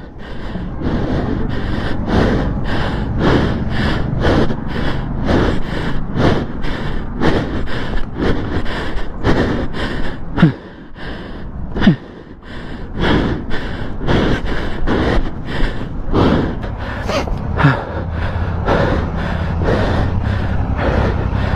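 A person sobbing and gasping for breath in quick, ragged breaths, about two a second, with a few falling wails, after being hit in a motorcycle crash. An engine hums steadily underneath.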